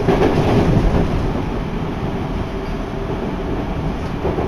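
Seibu Ikebukuro Line commuter train running at speed, heard from aboard: a steady rumble of wheels on rails mixed with rushing wind.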